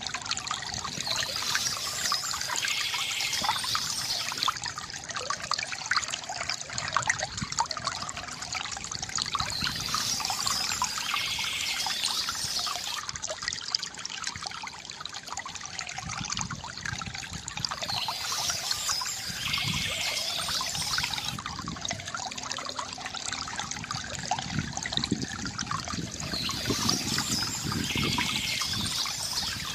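Water trickling and gurgling steadily from a bamboo fountain spout. A bird's chirping song comes in four times, about every eight seconds.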